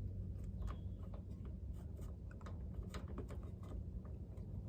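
Faint, irregular clicks and small metal taps of hand tools on a bolt, over a steady low hum.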